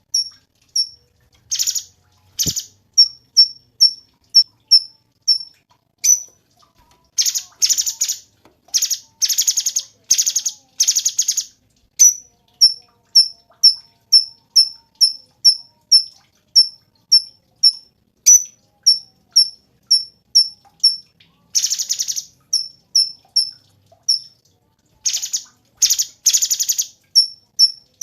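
Cucak cungkok singing: a steady run of short, high chip notes about two a second, broken several times by harsh, buzzy rattling bursts about half a second long.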